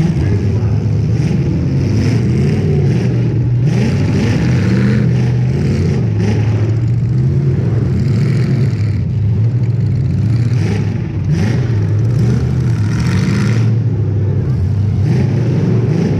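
Demolition derby car engine running hard, its pitch rising and falling as it revs, with several short, harsher noisy bursts over it about four, eight and thirteen seconds in.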